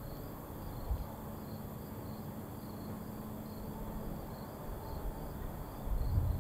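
Crickets chirping steadily, about two chirps a second, with a low rumble coming in near the end.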